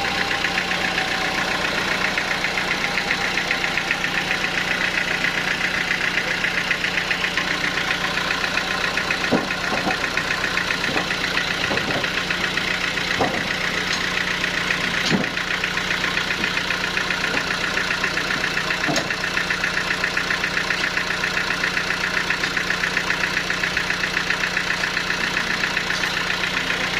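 Sawmill engine running steadily with a fast, even beat, and a few light clicks or knocks in the middle stretch.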